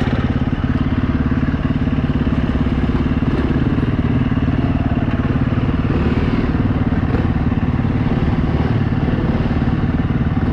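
KTM 350 EXC-F single-cylinder four-stroke dirt bike engine running at low, steady revs.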